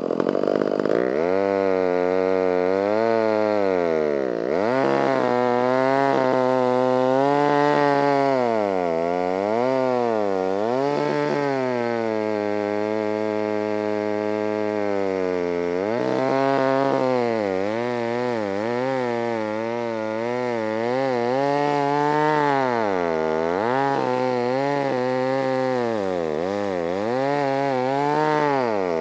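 Stihl 056 two-stroke chainsaw with a 36-inch bar cutting a large dead elm. Its engine pitch sags under load and climbs back again and again, holding steady for a few seconds about halfway through.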